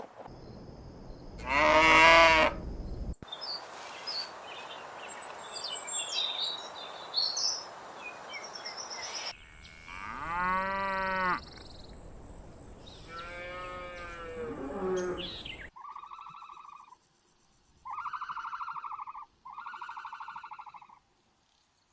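A run of separate animal calls. First a loud, drawn-out call, then a stretch of background hiss with scattered high chirps, then two more drawn-out calls. The run ends with four short, pulsed calls with gaps between them.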